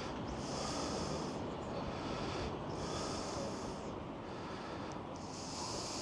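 Strong wind buffeting a microphone covered by a windsock: a steady low rumble, with a high hiss that comes and goes in three stretches of a second or two.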